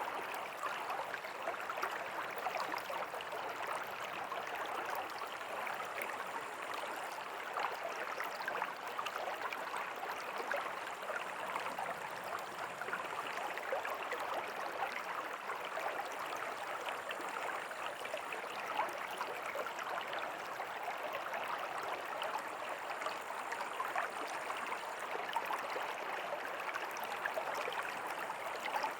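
A river flowing steadily over rocks: an even rushing and babbling of water, with many small splashes and no change in strength.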